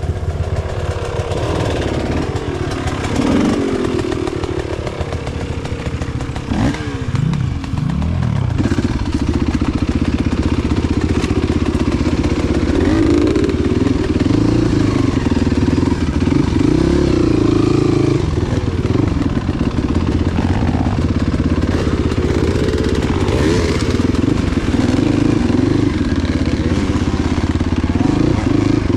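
Enduro motorcycle engine running under load off-road, its revs rising and falling through the first several seconds, then held steadier at higher revs for the rest.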